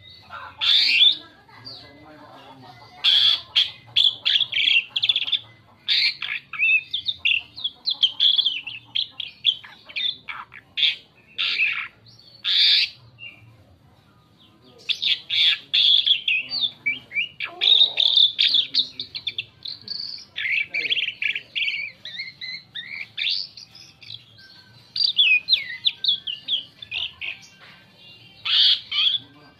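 Asian pied starling singing a varied song: quick runs of chattering, whistled and harsh notes, with a brief pause about halfway through.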